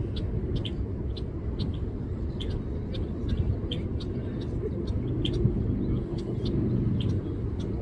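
Wind rumbling on the microphone during an outdoor walk, with light crisp footsteps ticking about two to three times a second.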